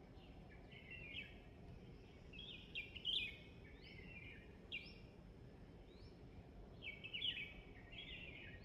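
Songbird chirping in short bursts of quick, bright notes repeated every second or two, over a faint steady background hiss.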